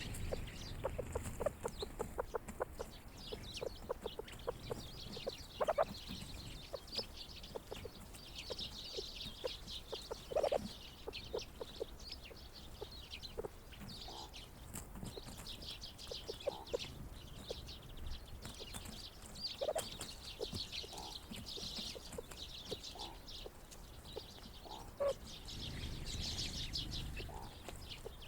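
A flock of grey partridges giving short, soft clucking calls, with a louder call every few seconds, over steady high chatter from small birds.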